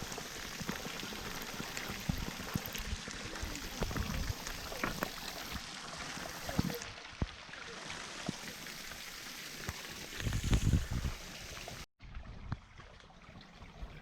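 Running and splashing water from a small waterfall, an even rush dotted with drips. About ten seconds in there is a brief low rumble. Just before the end it cuts off abruptly and gives way to a quieter, duller water sound.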